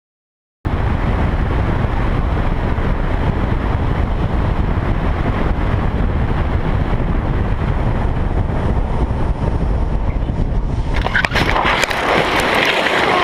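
Heavy wind buffeting on a riding camera's microphone, mixed with road noise, cutting in abruptly just after the start. A few sharp knocks come near the end.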